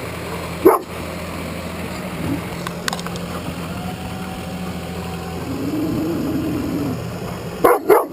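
Dog barking: one sharp bark about a second in, then a quick run of barks near the end, over a low steady machine hum.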